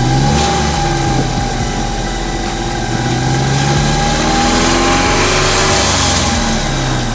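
A vehicle engine running, its pitch rising slowly to a peak a few seconds in and dropping back near the end.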